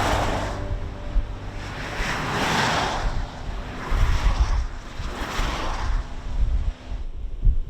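Gusty wind rushing past, swelling and fading about four times, with low buffeting on the microphone.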